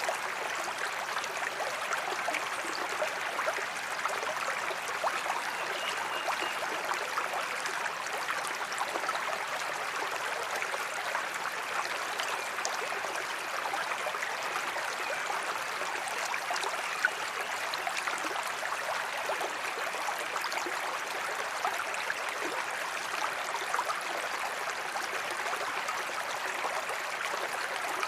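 Waterfall water flowing and splashing in a steady, even rush full of small splashes and trickles, with little deep rumble.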